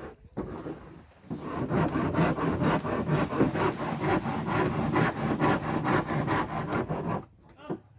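A hand tool working wood with rapid, steady back-and-forth strokes, starting about a second and a half in and stopping shortly before the end.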